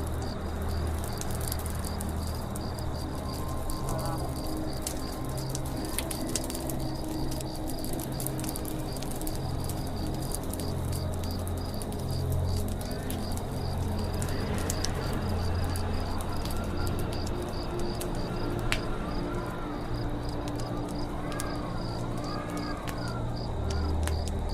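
Campfire crackling, with scattered sharp pops over a low steady rumble of burning wood. Forest ambience runs behind it: an insect's steady pulsing trill throughout and several short rising-and-falling bird chirps in the second half.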